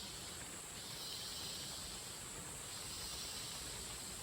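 Rainforest insect chorus: a high buzzing that swells and fades about every second and a half over a steady, very high whine.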